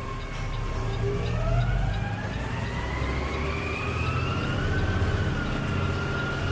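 An emergency vehicle siren wailing, slowly rising in pitch and then falling, over the steady low rumble of a CNG garbage truck's engine.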